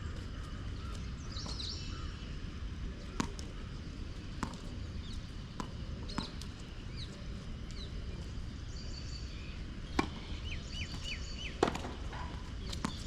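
Tennis balls being hit with rackets and bouncing on a court: sharp single pops spaced a second or more apart, the two loudest in the latter half. Birds chirp in the background.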